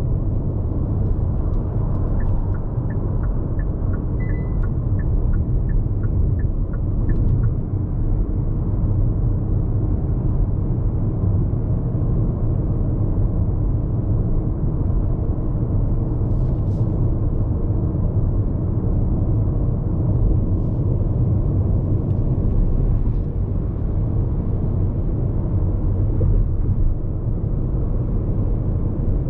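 Steady low rumble of tyre, road and wind noise inside the cabin of a Hyundai IONIQ 5 AWD battery-electric car cruising at highway speed, with no engine sound. A short run of faint, regular ticks about twice a second comes a couple of seconds in and stops after a few seconds.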